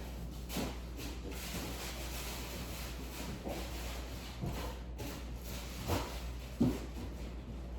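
Govee ceiling fan running fast, a steady rush of moving air over a low hum, with a few soft knocks of handling noise.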